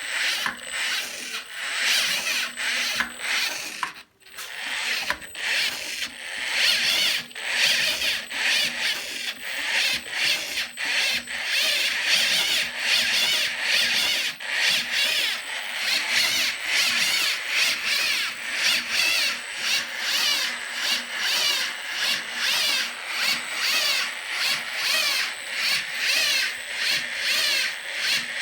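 Valve train of a 1992 Kawasaki Estrella's single-overhead-cam cylinder head being turned over to run its intake and exhaust valves: a rasping mechanical noise that pulses in a regular rhythm, stopping briefly about four seconds in.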